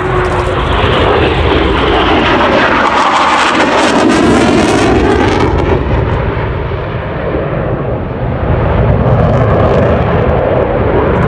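Eurofighter Typhoon's twin EJ200 turbofans in a loud display pass, with a sweeping shift in pitch in the first half, settling into a steady jet rumble.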